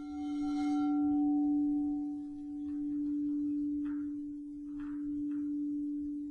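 Crystal singing bowl ringing one steady low tone that swells and fades in slow waves. Its higher overtones die away in the first seconds.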